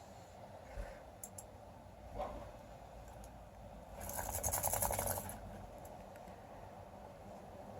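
A brief scratchy crunching, made of many fast fine crackles, lasting a little over a second about four seconds in, with a few faint clicks before it.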